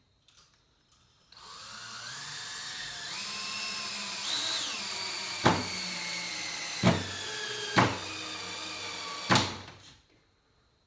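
Power drill driving a screw into wood at an angle. The motor whines and its pitch shifts as the trigger is worked, and four sharp clacks come in the second half before the motor stops.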